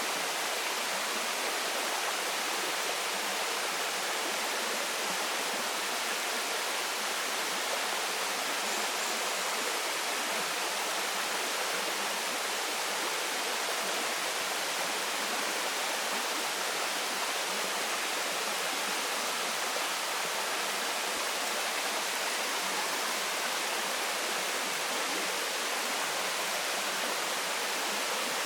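Waterfall: water falling in a steady, even rush with little deep rumble.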